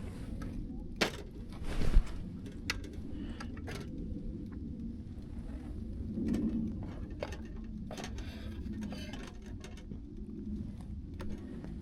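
Camp cookware being handled: scattered light clicks and knocks, with a louder knock about two seconds in, over a steady low rumble.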